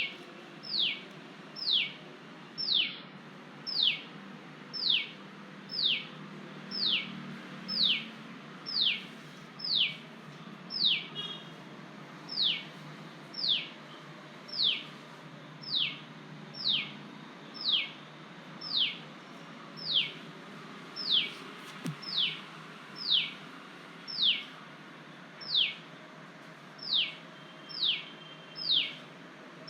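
A hidden songbird repeating one high, clear whistled note that slides downward, about once a second in a steady, unbroken series.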